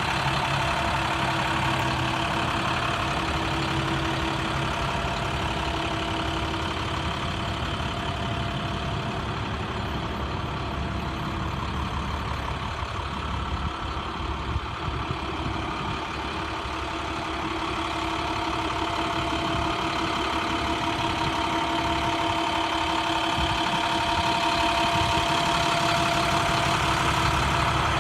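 International 4400 dump truck's DT inline-six diesel engine idling steadily, growing gradually louder over the second half.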